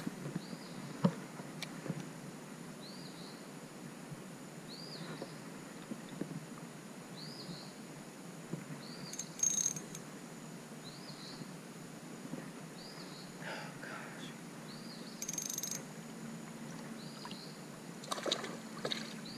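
A bird repeating a short high call about once a second over steady outdoor background noise, with two brief splashes of water, one near the middle and one later.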